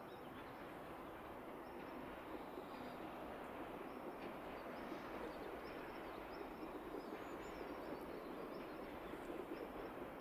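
A small bird gives short high chirps about once a second over faint, steady outdoor background noise.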